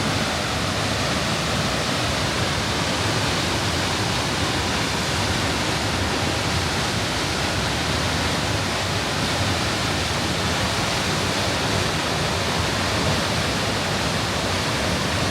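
Steady, dense rush of water from Gljúfursárfoss, a 45-metre waterfall, running in very heavy flow.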